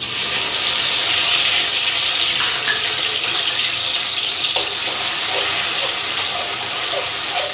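Wet onion, garlic and ginger paste frying in hot oil in an aluminium karai: a loud, steady sizzle that starts suddenly as the paste hits the oil and keeps going while it is stirred with a spatula.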